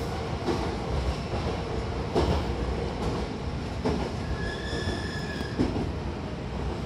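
Hankyu commuter train running, heard from inside the car as it comes in to a station stop: a steady low rumble with a clack from the wheels over rail joints roughly every second and a half. About four and a half seconds in there is a high squeal lasting about a second.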